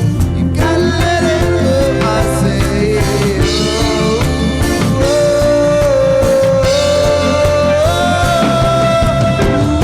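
A rock band playing live: drums and bass under a lead melody line that holds long notes and steps upward in pitch through the second half.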